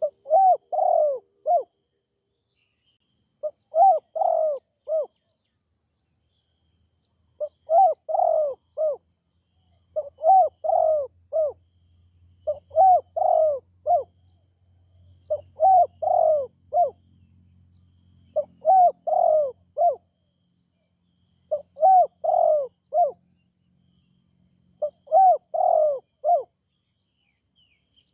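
Spotted dove cooing: about nine short phrases of three or four notes each, repeated roughly every three seconds. A faint low hum runs underneath through the middle stretch.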